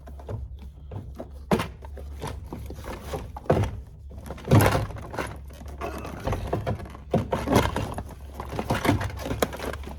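Irregular thunks, knocks and clicks of hands and tools working on a car's plastic interior door panel, the loudest knock about four and a half seconds in.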